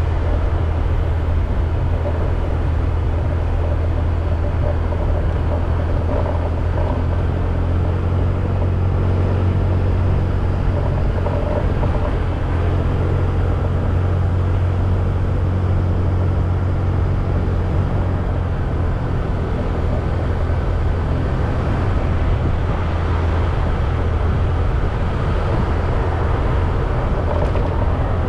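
Motorbike engine running at a steady cruise while being ridden, a constant low drone with wind and road noise over it.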